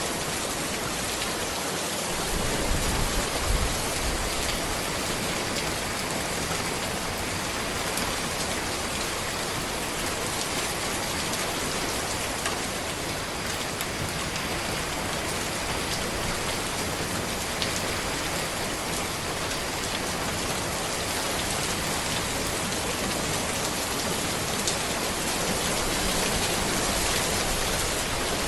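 Steady rain falling on a road, a dense even hiss with scattered individual drops ticking, and a brief low rumble about three seconds in.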